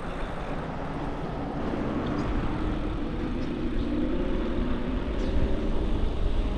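Wind and road rumble on a microphone riding along on a moving e-bike, growing louder as it goes, with a faint hum that rises slightly in pitch through the middle.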